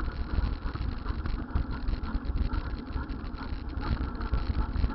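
Steady low vehicle rumble with wind noise on the microphone, uneven in level.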